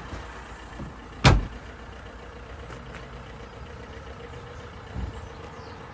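A car's tailgate is shut with one loud, solid thump about a second in, followed by a softer low knock near the end.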